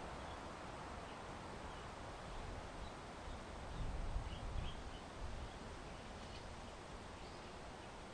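Outdoor ambience of wind buffeting the microphone, with a low rumbling gust about four seconds in, and a few faint, short chirps of small birds.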